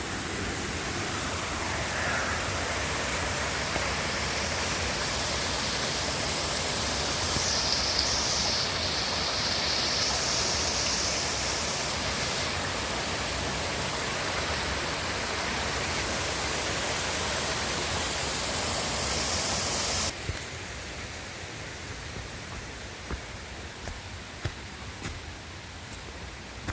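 Waterfall rushing in a steady roar of falling water. About two-thirds of the way through it cuts abruptly to a quieter wash of flowing water with a few light knocks.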